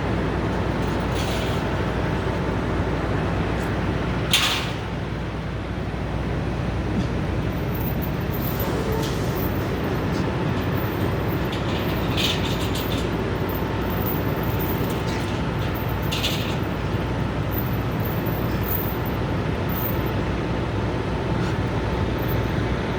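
Steady low rumble of idling truck engines, with a few brief sharp clicks, the loudest about four seconds in.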